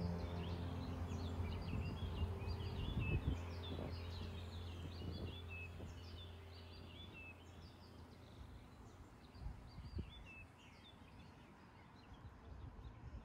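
Small birds chirping again and again over quiet street ambience. Under them a low held tone, the tail of background music, fades out over the first half.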